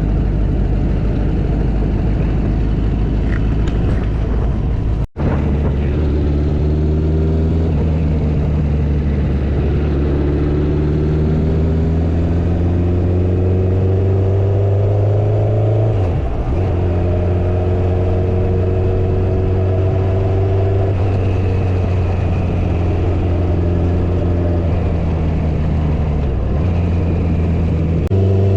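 Motorcycle engine running on the road, its pitch climbing slowly as it pulls and dropping back at a gear change about halfway through and again near the end. Wind and road noise run underneath, and the sound briefly drops out about five seconds in.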